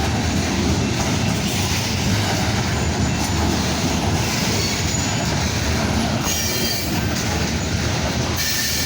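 Kansas City Southern freight cars rolling past at close range, a steady rumble and clatter of steel wheels on rail, with a brief high squeal twice, the second near the end.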